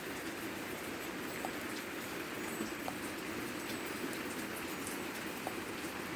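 Heavy rain falling steadily, with a few louder drops standing out now and then.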